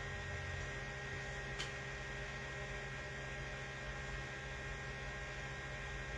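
Steady electrical mains hum with a faint background hiss, and one brief tick about a second and a half in.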